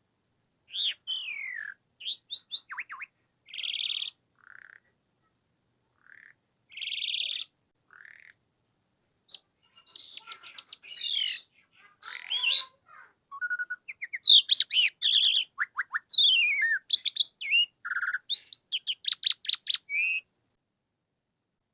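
Asian pied starling singing a varied song of slurred whistles, harsh buzzy notes and rapid clicking rattles in short phrases with brief gaps. The song grows busier and denser about halfway through.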